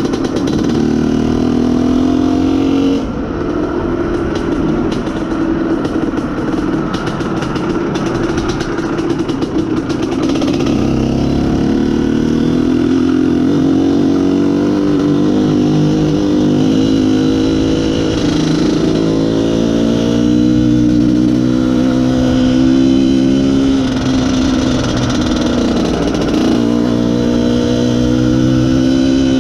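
IZH Planeta Sport motorcycle's single-cylinder two-stroke engine running loudly, its pitch rising and falling several times as the throttle is opened and eased.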